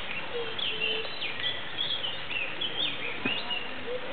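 Small birds chirping: a quick series of short, high chirps and sweeping notes over a steady outdoor hiss.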